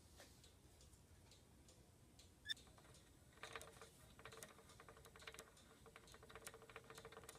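Small Wilesco model steam tractor running, its works giving off fast, light mechanical clicking over a faint steady hum from about three and a half seconds in. A single sharp metallic tick comes a second before.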